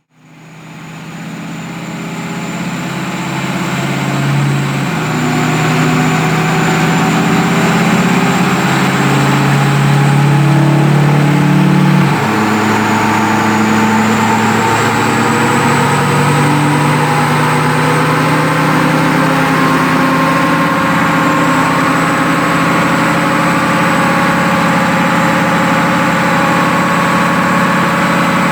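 Power Stroke diesel V8 of a 2005 Ford F-250 running under load on a chassis dyno, with a steady high whistle over the engine note. The sound swells in over the first few seconds, and the engine pitch shifts in steps about 4 and 12 seconds in.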